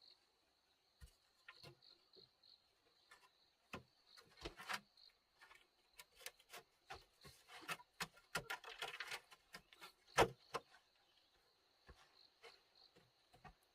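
Scattered light knocks, clicks and rustles of hand work, the sharpest about ten seconds in, over a faint steady high-pitched tone.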